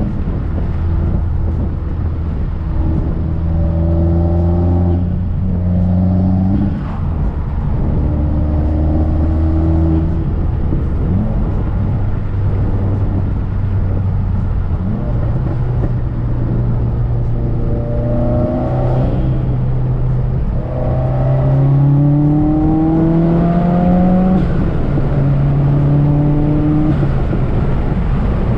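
Modified Subaru WRX's turbocharged flat-four engine pulling hard under acceleration while driving, its pitch climbing in each gear and dropping at each gearshift several times.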